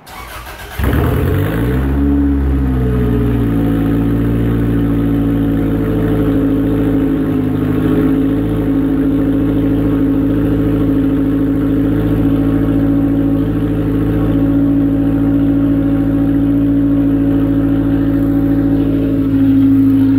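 A Toyota 2ZZ-GE 1.8-litre four-cylinder engine with a straight-pipe exhaust cold-starts: a brief crank, then it catches within a second, flares up in revs and settles into a steady fast cold idle. It gets slightly louder near the end.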